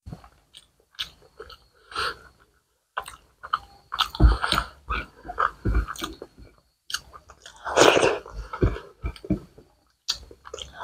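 Close-miked chewing of rice and curry: irregular wet, smacking mouth sounds and clicks, loudest about four and eight seconds in.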